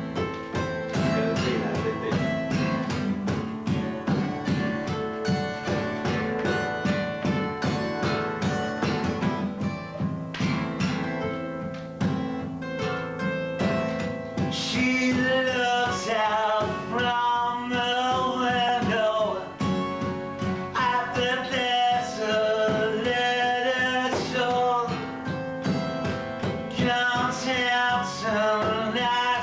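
Live band rehearsal music: strummed guitar with drums. About halfway through, a wavering melody line comes in over the accompaniment.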